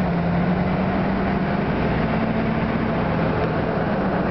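Small-block 350 four-barrel V8 in a 1954 Corvette roadster running steadily while driving in traffic, heard from the open cockpit over wind and road rush. The engine note shifts slightly about two seconds in.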